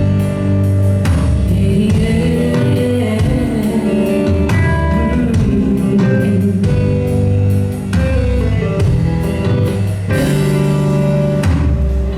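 Live band playing an instrumental passage between vocal lines of a ballad: guitar chords over bass and a steady drum-kit beat.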